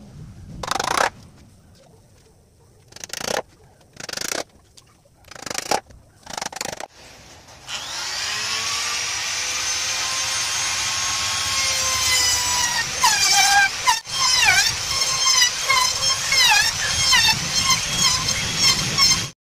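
Electric power tool working wood: a few short bursts, then a steady whine from about eight seconds in whose pitch dips about twice a second as it bites into the wood under load, cutting off suddenly at the end.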